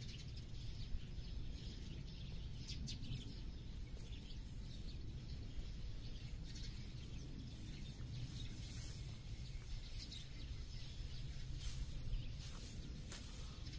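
Small birds chirping and calling in short, scattered notes over a steady low rumble of outdoor background noise.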